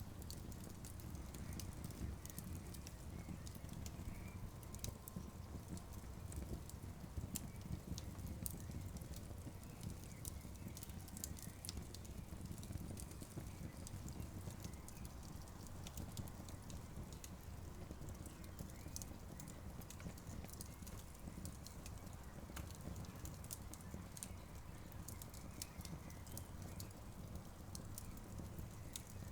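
Campfire crackling: many irregular sharp pops and snaps from the burning wood, over a steady low rumble.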